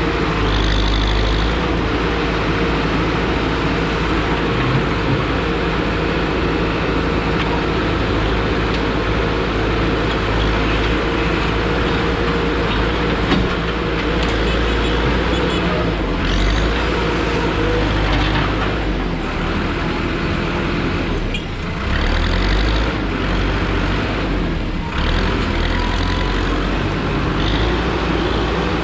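Busy street traffic dominated by a heavy vehicle's engine running steadily, with a steady hum through roughly the first half.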